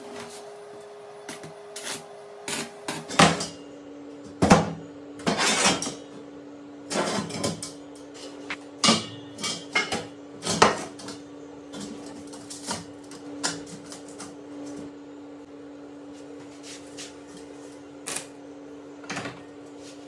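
A steady hum, dropping slightly in pitch about three seconds in, under irregular knocks, clatter and short rattles of hard objects being handled.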